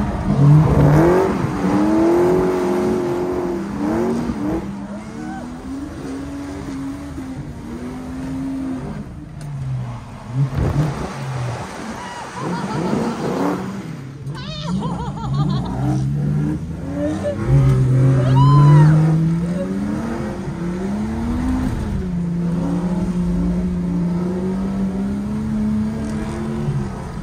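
Drift car engine revving up and falling back again and again under hard driving, with short bursts of tyre squeal about halfway through.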